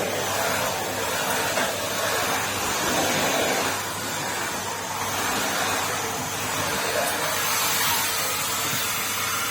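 Numatic Henry cylinder vacuum cleaner running steadily, a motor hum under a constant rush of air.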